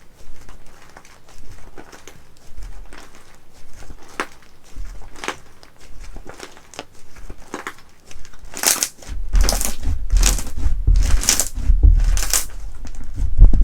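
Slime being pressed and squeezed by hand, crackling and popping softly at first. About eight seconds in come louder, crisp crunching squeezes, about five of them, roughly one a second.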